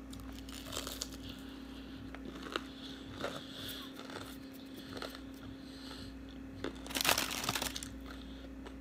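Chewing a bite of fried tilapia, with scattered small mouth clicks and a brief louder noisy burst about seven seconds in, over a steady low hum.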